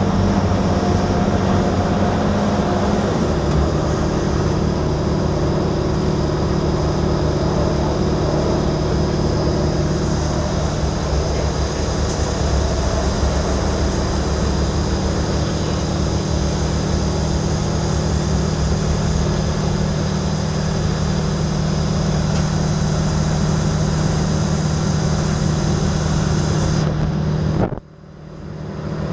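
Cabin noise of an Alstom Coradia LINT railcar under way: a steady drive hum with rumble from the running gear. The main hum drops a step in pitch about three seconds in. Near the end the sound cuts out for about a second and then comes back.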